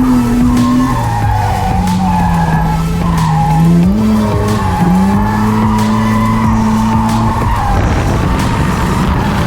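Car engine held high in the revs and rising and falling while the tyres skid, as in drifting; the engine note drops away near the end, leaving the tyre and wind noise.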